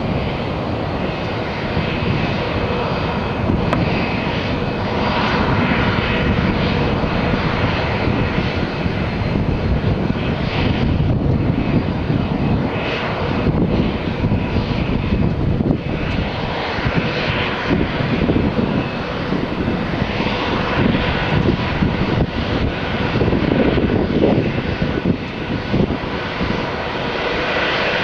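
Airbus A330-300's twin jet engines running at high power for takeoff: a loud, steady rush of noise with a few held whining tones over it.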